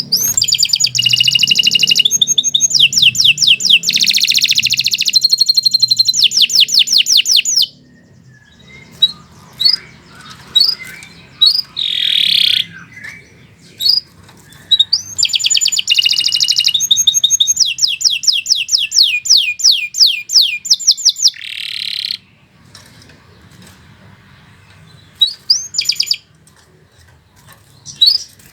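Canary singing: two long, loud song phrases of rapid trills and rolling repeated notes, each lasting about seven seconds, separated by quieter scattered chirps and single notes.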